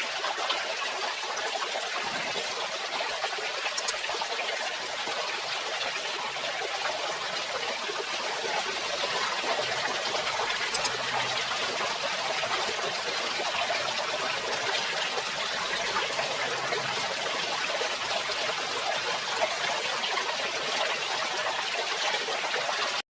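Water from a small DIY submersible pump, running out in a steady, even trickle and splash.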